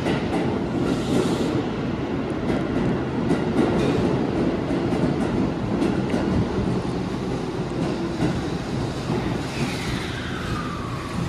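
Keihan 8000 series electric train running past along an underground platform: a steady rumble of wheels on rail, with scattered clicks over the rail joints and a whine that falls in pitch near the end.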